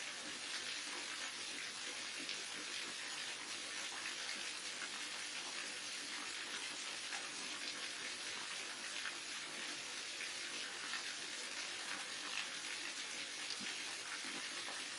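A waterfall: water falling and splashing steadily, at an even level throughout.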